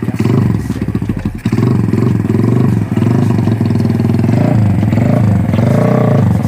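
Motorcycle engine blipped repeatedly through a homemade exhaust made from a mini-stove LPG gas canister, its note rising and falling with each rev.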